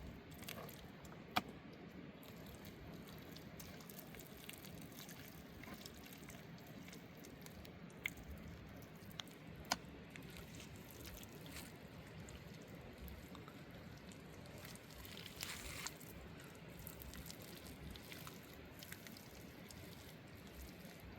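Faint water trickling and dripping, with a few sharp taps scattered through and a short louder wash of noise about three-quarters of the way in.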